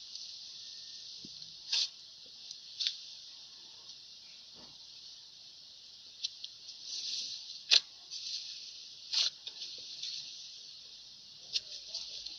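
Slime being poked and squeezed by fingers: irregular sticky clicks and pops, a handful spread through the stretch, the loudest about two-thirds of the way in, over a steady hiss.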